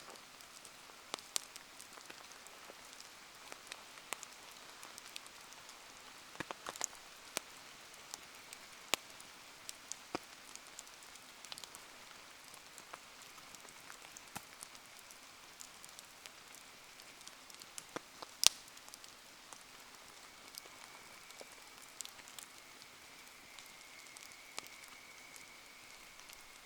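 Steady patter of rain with scattered sharp pops and crackles from a wood bonfire, the loudest pop about eighteen seconds in. A faint, thin, high whistle comes in after about twenty seconds.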